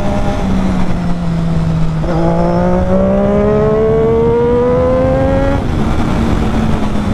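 Triumph Daytona 675R's inline-three engine at high speed over heavy rushing air noise. About two seconds in, the engine note climbs steadily as the bike accelerates, then falls away after about five and a half seconds.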